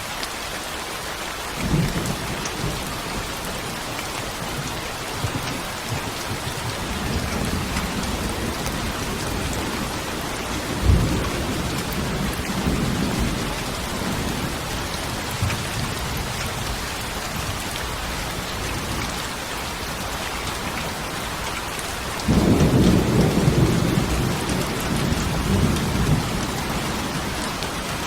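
Steady heavy rain hissing, with rolls of thunder rumbling through it; the loudest thunder rumble breaks in suddenly about three-quarters of the way through and fades over a few seconds.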